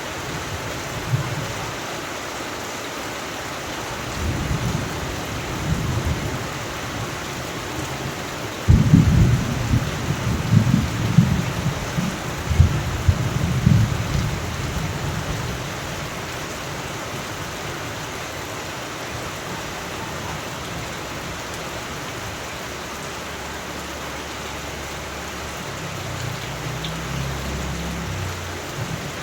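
Thunderstorm: steady rain hiss with rolling thunder. A sharp, loud thunderclap comes about nine seconds in and rumbles on for several seconds, and a softer distant rumble follows near the end.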